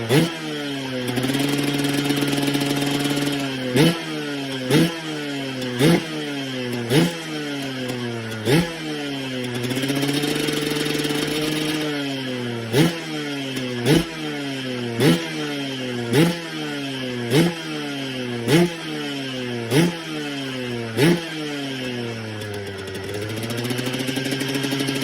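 Suzuki RM 125 two-stroke motocross engine, through an aftermarket expansion-chamber exhaust, being blipped again and again: quick sharp revs about once a second, each dropping straight back. These are broken by three spells where it runs at a steadier speed for a couple of seconds.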